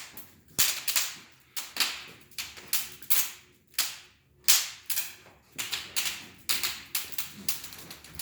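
A run of sharp snaps or knocks, irregularly about one or two a second, each dying away quickly.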